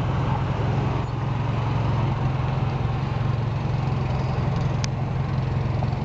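Steady low hum of a car's engine and road noise, with no change in pitch.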